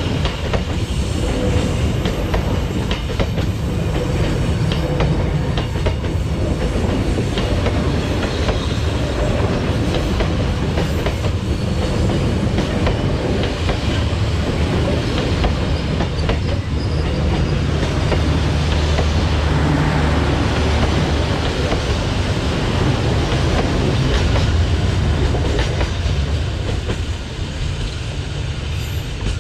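A train rolling past on the rails, its wheels clicking steadily over the rail joints with a continuous low rumble, growing a little quieter near the end.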